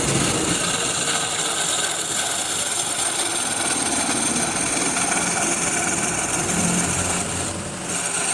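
Wood lathe running, with a steady hiss of the spinning wood being worked; the sound dips briefly near the end.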